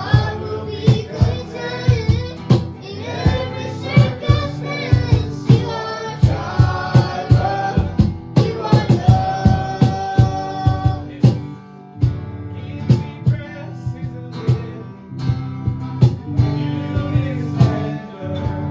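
Live worship band playing a song: singing over guitar, with a steady beat.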